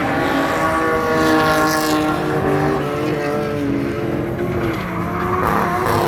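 Drift cars' engines running at high revs, their pitch wavering up and down as the throttle is worked through the slide, over a hiss of tire noise.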